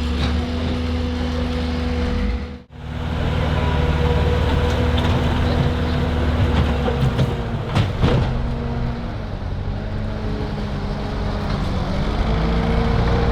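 A large engine running steadily, with a brief break about two and a half seconds in before it carries on.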